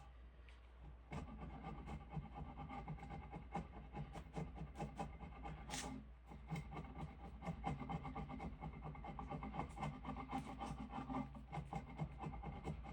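Faint rubbing and scraping on wood in quick, repeated strokes, starting about a second in with a short break midway.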